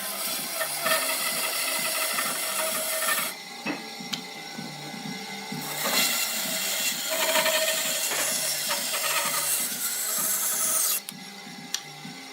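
A tool scraping over wood in two long rough stretches: the first stops about three seconds in, and the second starts around six seconds and cuts off abruptly near eleven seconds.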